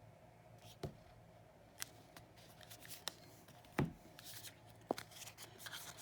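Oracle cards being handled: a few separate sharp clicks and taps, the loudest a little past the middle, turning into denser papery rustling near the end.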